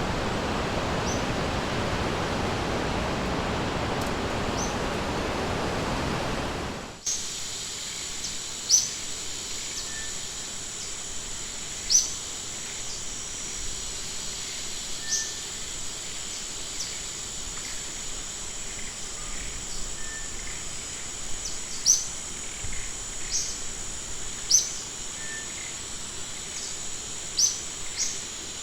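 Rushing river water that cuts off abruptly about seven seconds in. It gives way to a steady high insect drone with short, sharp, downward bird chirps repeated irregularly over it.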